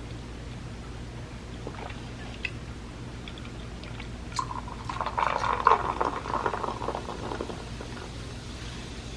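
Liquid pouring for about three seconds, starting a little over four seconds in, after a few light clicks.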